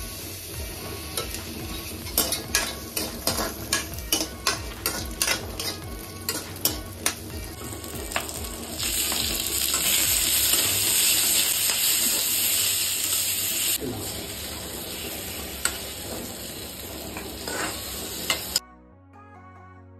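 Onion and tomato pieces sizzling in hot oil in an aluminium kadai, a metal spatula clinking and scraping against the pan about twice a second. Around the middle the sizzle grows much louder for about five seconds, then settles back; near the end it cuts off suddenly to soft music.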